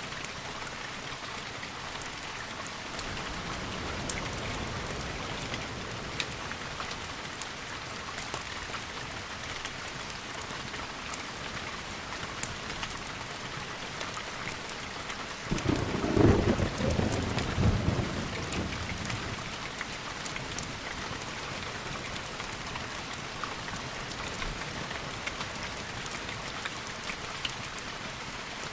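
Steady rain with a clap of thunder about halfway through that rumbles for a couple of seconds before fading back into the rain.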